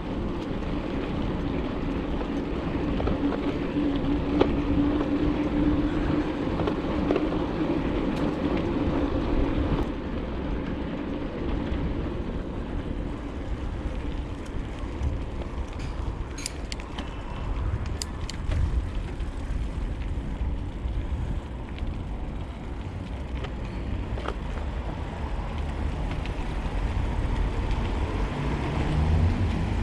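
Wind noise on the microphone while a bicycle is ridden along, steady throughout, with a few sharp clicks a little past halfway.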